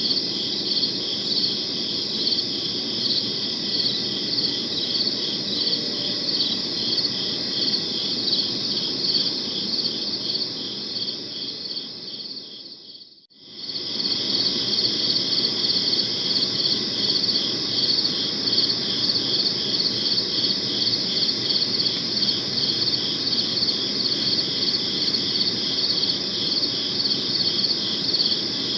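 Crickets chirping in a steady chorus with a fast pulsing trill, over a low background hum. About halfway through, the sound fades away almost to silence and then comes straight back.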